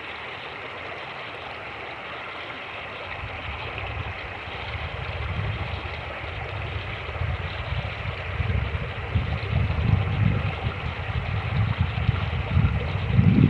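Fast-moving creek rushing steadily. Wind buffets the microphone in low, rumbling gusts that start a few seconds in and grow stronger toward the end.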